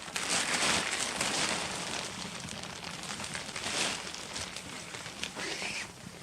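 Tarp fabric rustling and crinkling as paracord is pulled through its toggles, a dense crackly rustle that is loudest at first and eases off toward the end.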